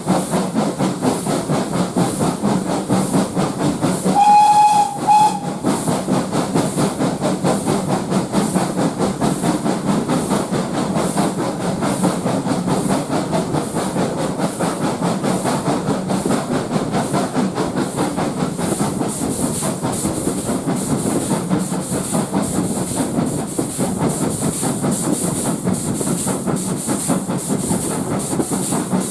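Steam locomotive running, with a steady hiss of steam and regular beats, and a short whistle blast about four seconds in.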